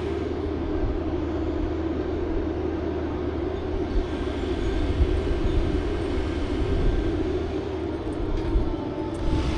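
An engine running steadily at a constant speed, with a few light knocks near the end.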